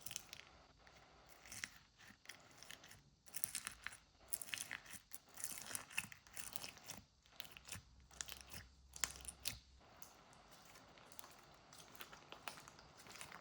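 Crunchy chocolate biscuit snack (Choco Namu Sup) being bitten and chewed close up, in irregular crisp crunches with some crinkling.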